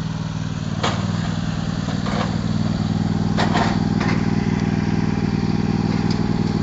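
Tractor engine running steadily while towing a wagon, with a few short sharp rattles scattered through it. It gets slightly louder over the first few seconds.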